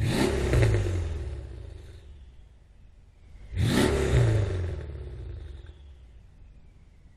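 Mercedes CLS 63 AMG V8 exhaust, revved twice in quick blips from idle, about three and a half seconds apart; each rev climbs sharply in pitch and then falls back and fades over a couple of seconds.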